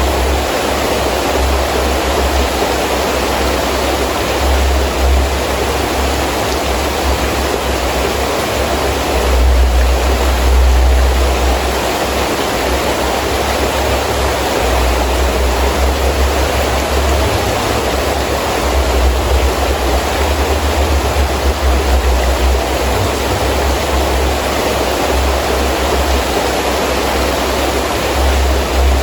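Heavy rain falling steadily, with wind gusting in a low, uneven rumble; a stronger gust swells about ten seconds in.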